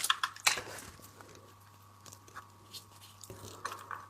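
Close-miked seafood eating: a few sharp cracks and crackles of shell being broken open in the first half-second, then quieter, scattered clicks of picking at and chewing the meat.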